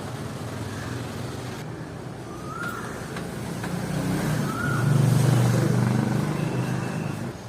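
A motor vehicle passing by: a low engine hum that grows louder to a peak about five seconds in, then fades away.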